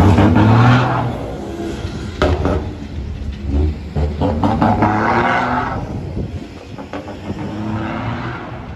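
Ford Cargo 3230S truck's diesel engine revving through an open remote-controlled exhaust cutout, loud and rising and falling in three surges, with a few sharp cracks between the revs.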